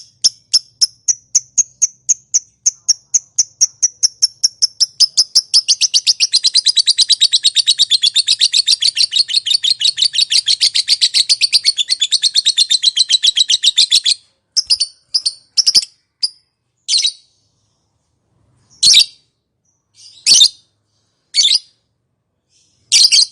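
Lovebird's long 'ngekek' chatter: a quick run of sharp, high, repeated chirps that speeds up into a dense fast trill for about eight seconds, then breaks off into separate chirps and a few single calls further apart.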